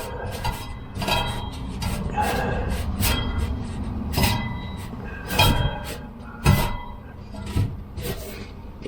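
Scattered knocks and clunks, about one a second, as a hand works inside a sheet-metal furnace blower housing and pushes the squirrel-cage wheel round by hand, over a low rumble. The wheel turns slowly and stiffly without any noise of its own, which is taken for a tired blower motor.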